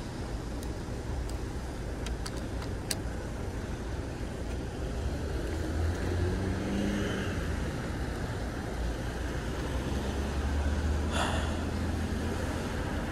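Steady low traffic and road rumble heard from a moving e-bike, with motor vehicles going by. There are a few sharp ticks in the first three seconds and a short, sharper sound about eleven seconds in.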